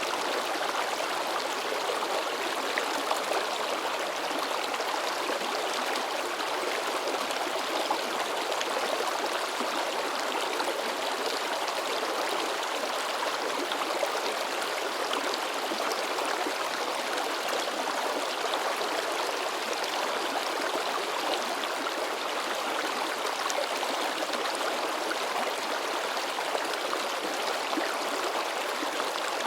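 Shallow river babbling and splashing over rocks, a steady rush of water with many small splashes throughout.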